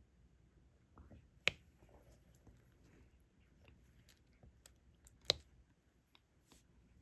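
Small plastic ticks and taps of diamond painting: a drill pen picking up tiny resin drills and pressing them onto the adhesive canvas. Two sharper clicks stand out, one about a second and a half in and one a little after five seconds.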